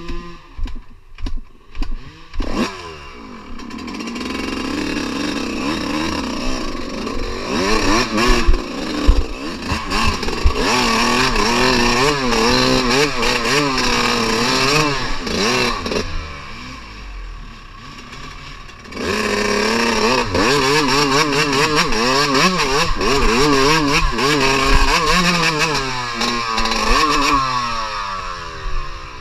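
Dirt bike engine running under constantly changing throttle, its pitch rising and falling over and over. A few sharp knocks come in the first couple of seconds, and it eases off for a few seconds past the middle before pulling loud again.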